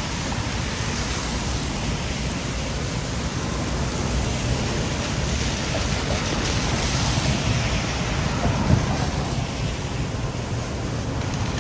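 Steady hiss of heavy rain with wind rumbling on the microphone, and one brief louder bump about nine seconds in.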